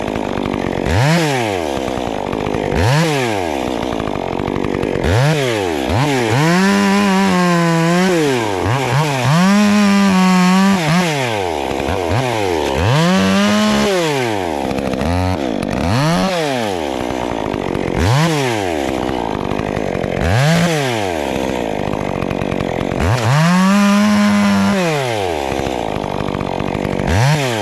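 Two-stroke chainsaw revving up and dropping back to idle again and again, about every two seconds. Several times it is held at full revs for a second or so.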